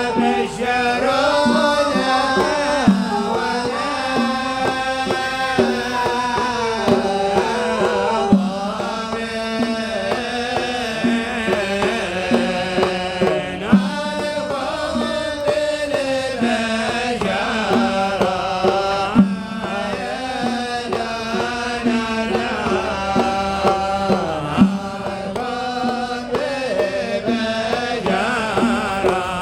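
Traditional Yemeni sama' song: male voices singing a winding Arabic melody over a steady low tone, with sharp drum strikes now and then.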